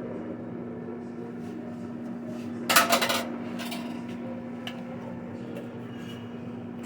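A brief metallic clatter of a cooking pot and utensil, about three seconds in, over a steady low hum.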